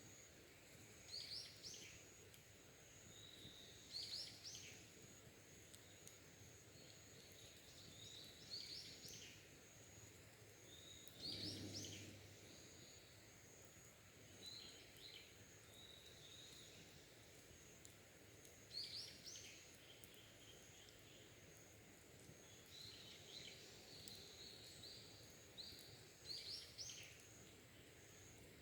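Faint wild birdsong: short chirping phrases every few seconds over a steady high insect drone, with one brief low rumble near the middle.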